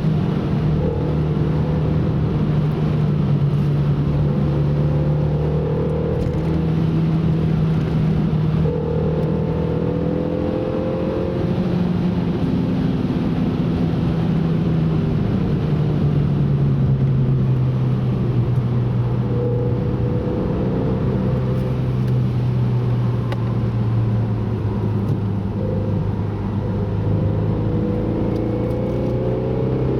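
Car engine pulling steadily at speed on a wet track, its pitch holding, then falling slowly through the middle before rising again near the end, over a constant rush of road noise.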